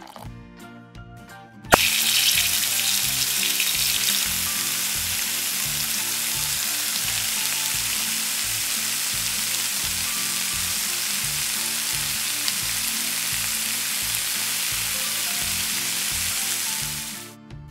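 Chicken breast frying in hot oil in a miniature wok. A loud sizzle starts suddenly about two seconds in, with a click, as the meat goes into the oil, then holds steady and cuts off abruptly near the end. Music plays underneath.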